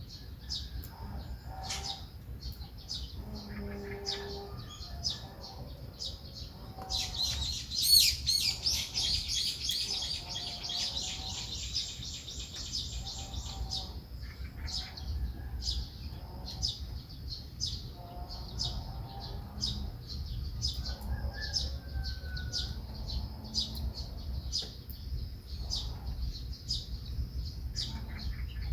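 Small songbirds chirping: a steady series of short high chirps throughout, with a loud, rapid twittering song from about seven to fourteen seconds in, over a faint low background rumble.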